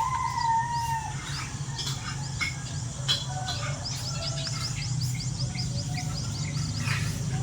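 Several birds chirping and calling, with whistled notes and, in the second half, a rapid run of short, falling high-pitched notes. A steady low hum runs underneath.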